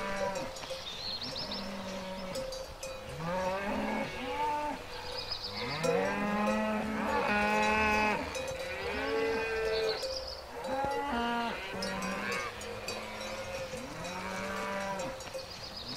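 Cattle mooing, many calls overlapping one after another, each rising and then falling in pitch. The calls are loudest and thickest around the middle.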